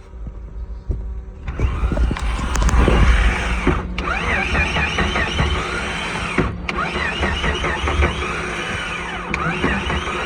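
Vehicle engine cold-started at about 29 degrees: it turns over for about a second and a half, catches, runs up fast, then settles toward a steady idle. Repeated high chirps sound over the running engine.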